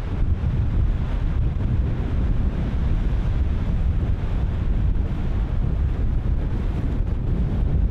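Wind buffeting the microphone in a steady low rumble over the wash of ocean surf breaking.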